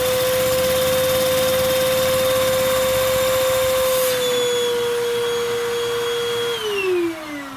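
Vacuum cleaner running with a steady whine, sucking air through a Lego vacuum engine whose moving parts add a rapid rattle underneath. Near the end the whine falls steadily in pitch as the vacuum motor winds down.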